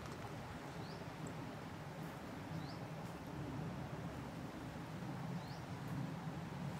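Forest ambience with a steady low background rumble. A bird gives a short, high, rising chirp four times at irregular intervals.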